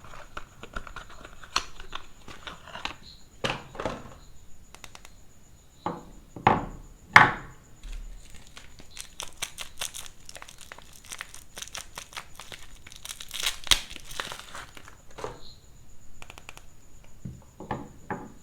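Soap packaging being unwrapped by hand, crinkling and tearing in irregular crackles, with two louder tears about six and seven seconds in.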